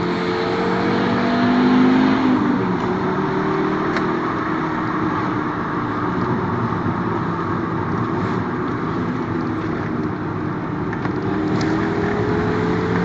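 Volkswagen Golf IV's 2.3-litre V5 five-cylinder engine running, very loud. Its note climbs over the first two seconds, drops sharply at about two and a half seconds, holds steady, then climbs slowly again near the end.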